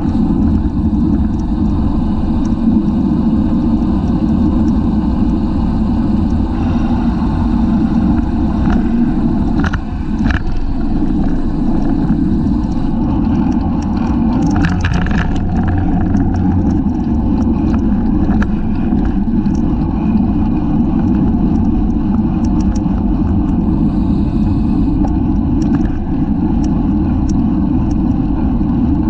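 Loud steady wind rush over a bicycle-mounted camera's microphone at racing speed, with scattered clicks and rattles from the bike.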